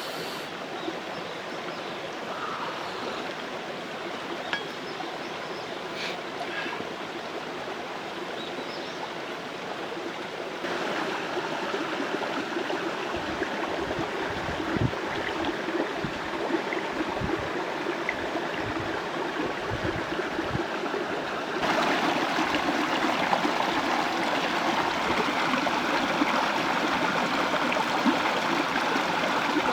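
Mountain stream rushing steadily over rocks, stepping up louder twice, about a third and two-thirds of the way through. A few low dull bumps come in the middle.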